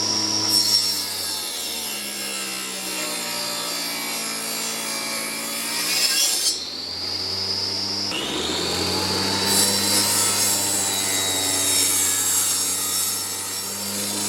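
Electric power tool cutting into wood, its motor slowing under the load and then picking back up, twice.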